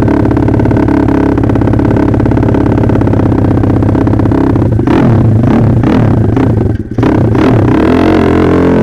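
Modified single-cylinder four-stroke pit bike engine with an FMF Power Core 4 exhaust, held at steady revs at first, then revving up and down with throttle changes from about halfway through, cutting out briefly near the end.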